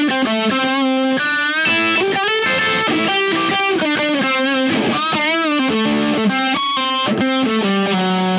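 Electric guitar through a Mozztronics Black Russian, a Russian Big Muff-style fuzz pedal, playing sustained single-note lead lines with string bends and vibrato.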